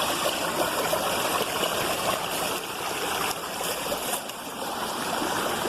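Waterfall water rushing and splashing: a steady, even noise.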